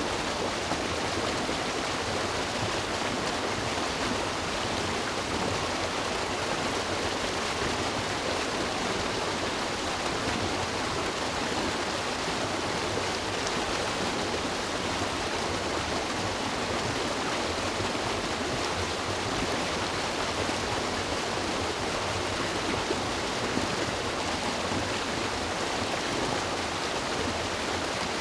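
River water rushing and splashing over rocks: a steady, even rush with no breaks.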